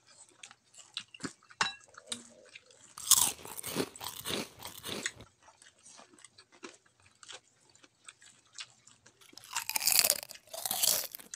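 Person chewing and crunching cooked shrimp, with two louder runs of crunching, about three seconds in and again near the end.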